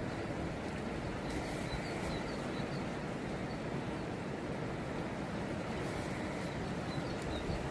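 Fast river water rushing steadily, with faint high bird chirps repeating in short runs over it.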